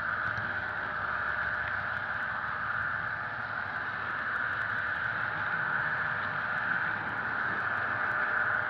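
HO-scale model train running steadily: a constant hum with the rumble of an EMD diesel engine from the locomotive's Soundtraxx Tsunami sound decoder, played through its small onboard speaker, with faint clicks of wheels over the track.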